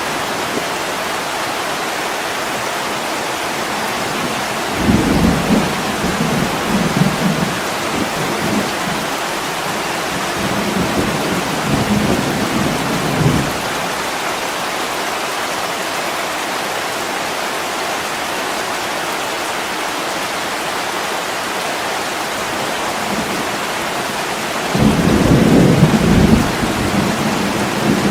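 Heavy rain pouring steadily on a window, with thunder rolling in low rumbles about five seconds in, again around twelve seconds, and loudest near the end.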